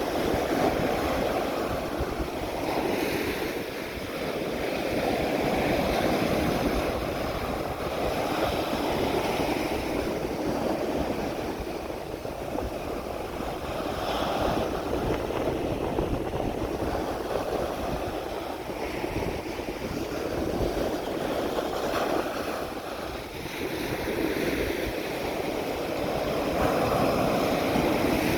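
Ocean waves washing onto a beach, the surf swelling and easing every few seconds, with a low rumble of wind on the microphone.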